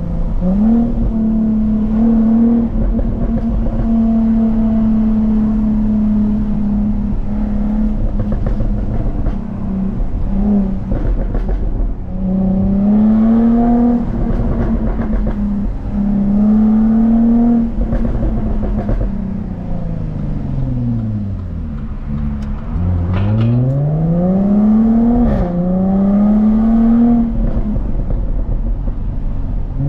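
Jaguar F-Type S's supercharged 3.0-litre V6 under way. It holds a steady cruise for the first several seconds, then pulls up through the gears, its pitch rising with a quick drop at each upshift. The pitch falls a long way as the car slows, and near the end it runs up again through another shift.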